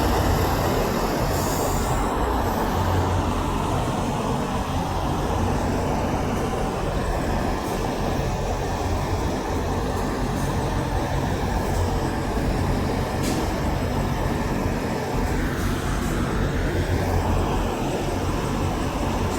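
Steady rumble of heavy road traffic, likely semi trucks passing, with no horn sounding.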